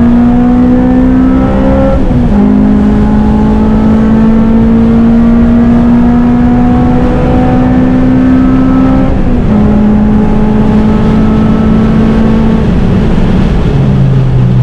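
Modified FN2 Honda Civic Type R's four-cylinder engine running hard on track, its revs climbing slowly. The revs dip briefly about two and nine and a half seconds in, and fall further near the end.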